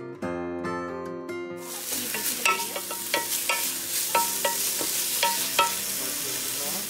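Curry paste sizzling in hot oil in a nonstick pan, stirred with a wooden spatula that scrapes and knocks against the pan a dozen or so times. The sizzle starts suddenly about a second and a half in.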